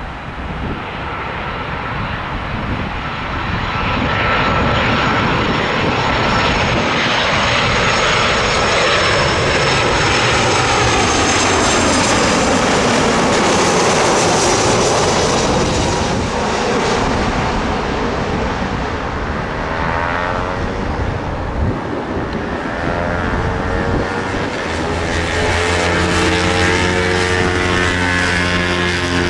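A large aircraft passing low overhead near the runway end: its engine roar builds, peaks in the middle with a falling high-pitched whine, and then fades. A steady low hum comes in near the end.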